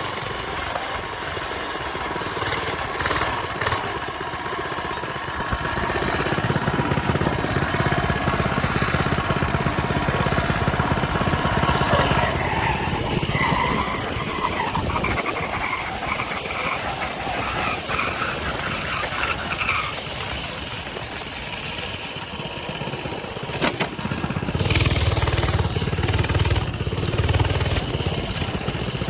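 Coleman mini bike's small engine running as the bike is ridden, getting louder about six seconds in and again near the end.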